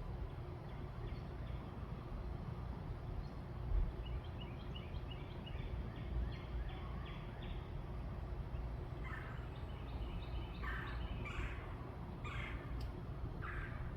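Birds calling: a quick run of short high notes about four seconds in, then several louder calls over the last five seconds, over a steady low rumble.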